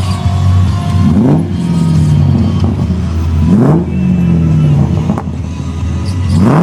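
Car engine revved hard three times, about every two and a half seconds: each rev climbs quickly in pitch, then falls away more slowly, over a steady low running note.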